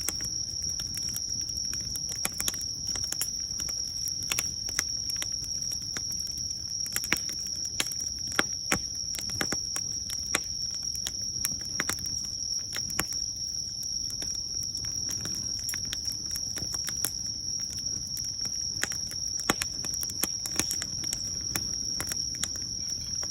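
Wood fire crackling, with irregular sharp pops and snaps over a low hiss. Behind it, insects trill in one unbroken high tone.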